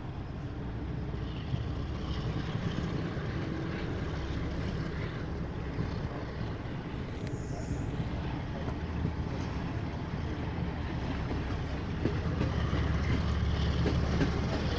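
Passenger train running, a steady low rumble of the coach on the rails with wind on the microphone, growing slightly louder toward the end.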